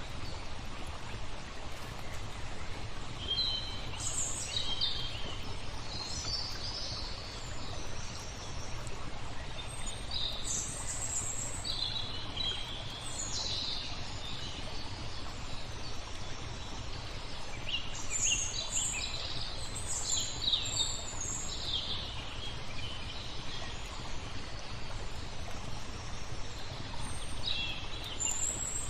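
Small songbirds chirping and twittering in scattered bursts over a steady hiss of flowing water and a low rumble.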